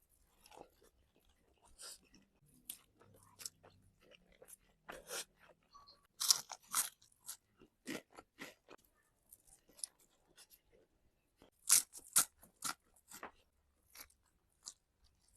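Close-miked chewing and crunching of crispy fried chicken with fried garlic: a run of irregular crisp crackles, loudest around six and twelve seconds in.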